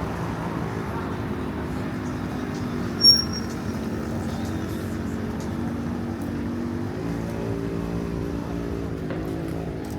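Street traffic with a vehicle engine running close by, its hum shifting in pitch about seven seconds in. A short, sharp high beep sounds about three seconds in and is the loudest thing heard.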